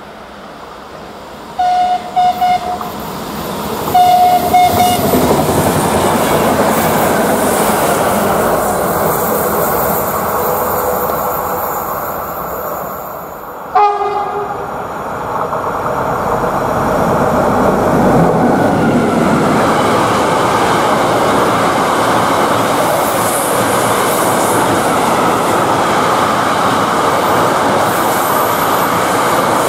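Passenger train approaching and sounding its horn in several short blasts, then one longer blast, before passing. About halfway through, a brief horn with falling pitch, then a container freight train behind a DB class 189 electric locomotive rolling past close by with a steady clattering rumble of wagons on the rails.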